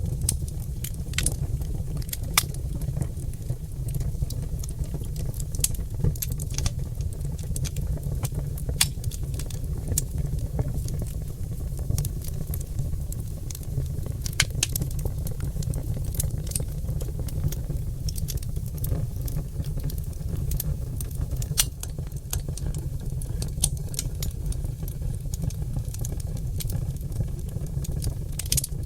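Oak log fire crackling, with frequent sharp, irregular pops over a steady low rumble.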